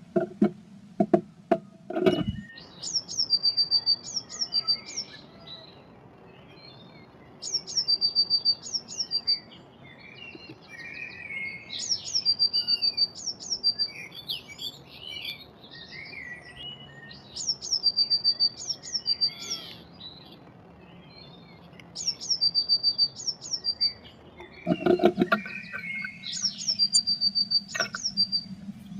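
Blue tit singing a repeated song: a few thin, high falling notes ending in a quick trill, about every five seconds. Loud knocks come at the start and again near the end.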